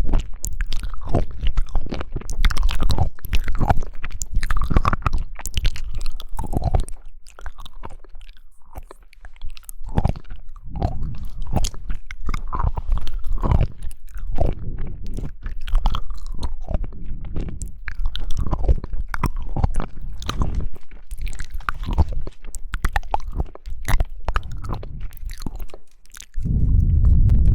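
A person biting and chewing jelly, with irregular wet clicks and crunchy bites in quick succession. Near the end there is a dull, low thud lasting about a second.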